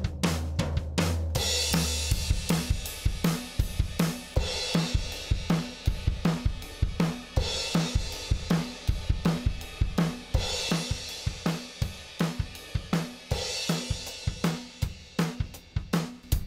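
Recorded drum kit playing a steady rock beat, with kick, snare and hi-hat and a cymbal wash about every three seconds. A low held bass note drops out about two and a half seconds in.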